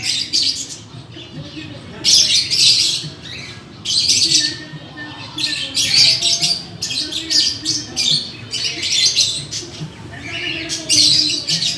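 Birds chirping in short bursts of about half a second to a second, repeating every one to two seconds.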